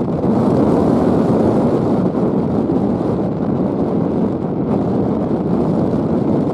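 Strong gusting wind buffeting the microphone: a loud, steady rumbling roar with no distinct events.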